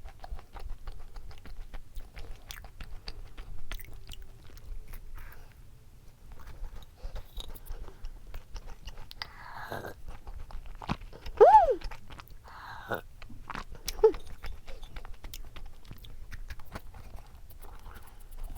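Close-up chewing and crunching of food, with many small crackles and clicks. A short high cry that rises and falls cuts in about two-thirds of the way through, the loudest moment.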